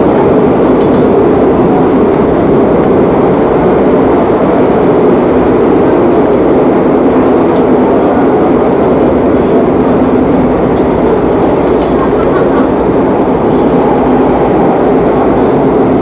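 Madrid Metro series 8000 train running steadily between stations, heard from inside the car: a constant loud rumble with a low steady hum.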